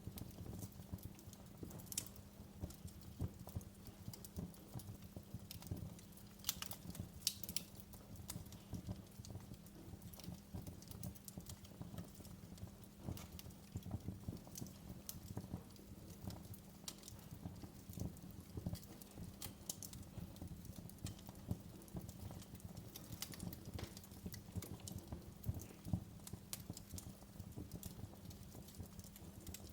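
Wood fire crackling in a fireplace: irregular sharp pops and snaps over a low steady rumble and hum.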